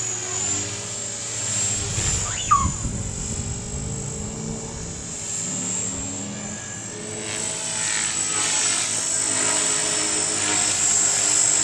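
Electric Trex 450-size RC helicopter flying, its rotor and brushless motor running with a steady high whine that wavers in pitch. A sharp knock about two and a half seconds in, and the helicopter grows louder over the last few seconds.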